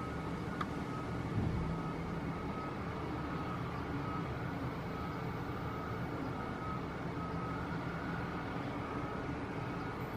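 Boeing 737-900ER jet engines running with a steady rumble and a faint, broken high whine.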